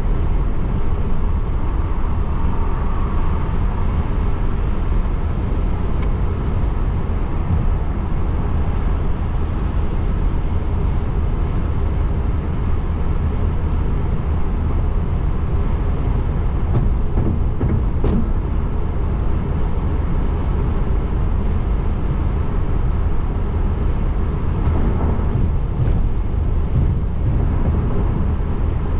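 Steady road noise of a car driving, a low rumble with a few faint clicks.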